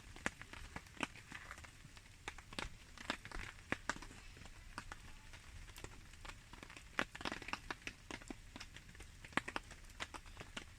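Wood campfire crackling, with irregular sharp pops and snaps, over the steady hiss of falling rain.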